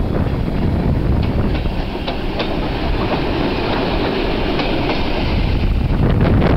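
Electric multiple unit train running past at close range, its wheels clicking over rail joints over a steady rumble.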